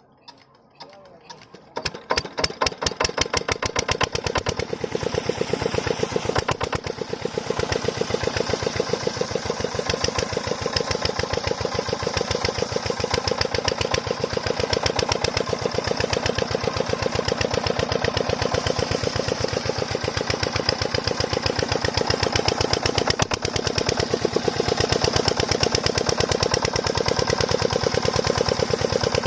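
Single-cylinder 8 HP diesel water-pump engine starting up about a second and a half in, its knocks picking up in loudness over the next couple of seconds, then running steadily with a fast, even knock.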